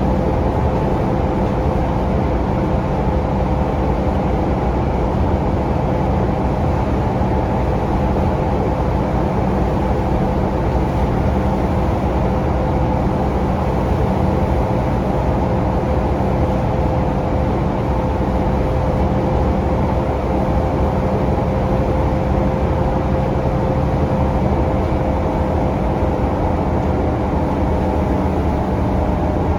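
Scania DC9 five-cylinder diesel and ZF Ecolife automatic drivetrain of a Scania K360UA articulated city bus heard from inside while riding, running steadily with a constant whine.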